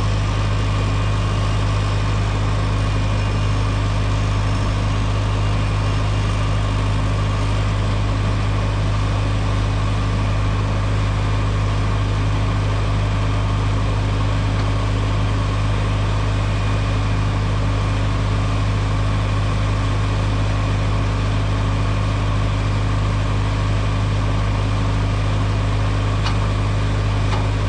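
Tractor engine running at a steady speed with a constant low hum.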